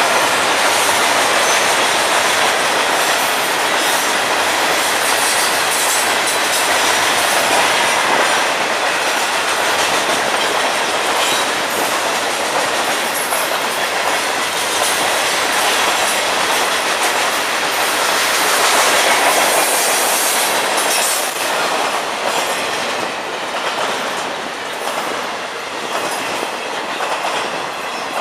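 Freight cars of a Florida East Coast train rolling past close by: a steady clatter of steel wheels on rail, with quick clicks over the rail joints. It drops a little in loudness over the last few seconds, as the hopper cars give way to container cars.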